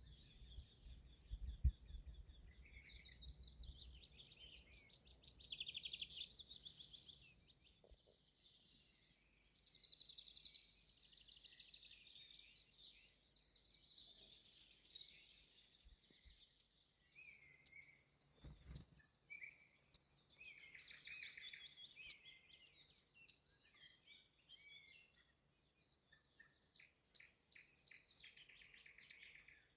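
Several songbirds singing at once, faint overlapping trills and warbled phrases that run on without a break. Low thumps sound in the first few seconds, and a single sharp click comes just before the two-thirds mark.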